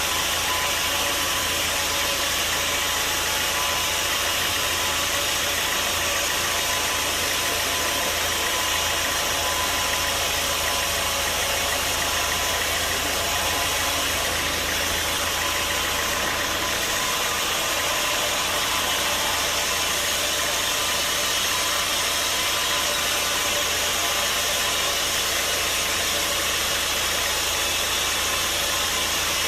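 Sawmill machinery running steadily, a continuous engine-driven drone and noise with no breaks or changes.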